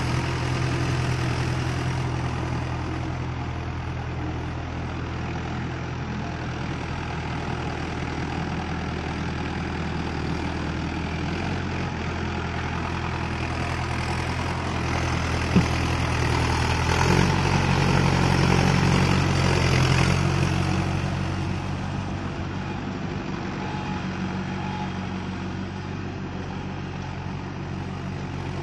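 Tractor engine running steadily under way, swelling louder for a few seconds past the middle before settling back, with one sharp click just before the swell.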